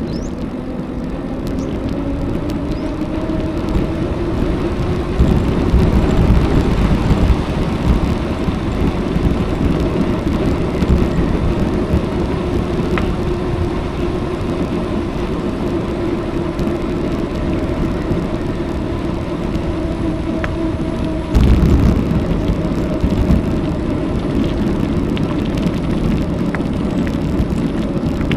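Riding a bicycle along a road: wind rumbles on the action camera's microphone, with gusts about five seconds in and again near twenty-one seconds, over a steady hum that rises in pitch in the first few seconds and then holds.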